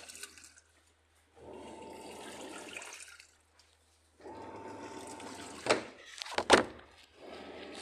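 Water rushing in repeated bursts about two seconds long, separated by short silences, with a few sharp knocks about three quarters of the way through.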